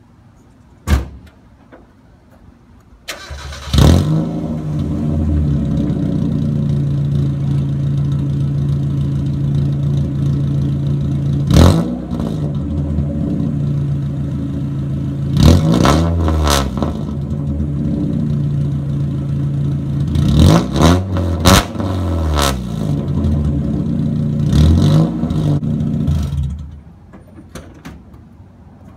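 Mazda Miata four-cylinder engine with the muffler cut off, started after a click and running loud and open-piped, blipped up in revs several times, then switched off near the end.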